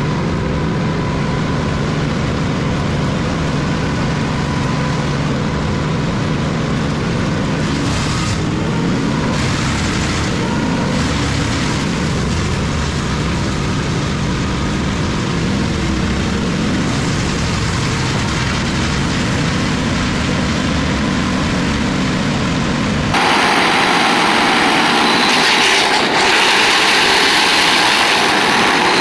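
Large wood chipper running, a steady engine drone mixed with grinding. About 23 seconds in the sound changes abruptly to a louder, hissier chipping noise.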